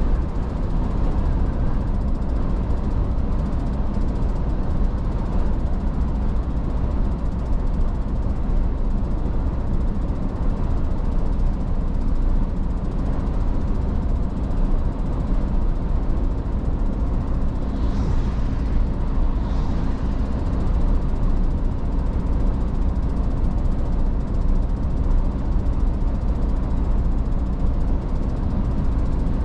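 Iveco S-Way truck driving at a steady speed: a constant low engine and road rumble.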